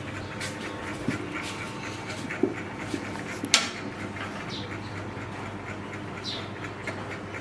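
Baby monkey's breathing and two brief high squeaks while bottle-feeding, with a few light knocks over a steady low hum.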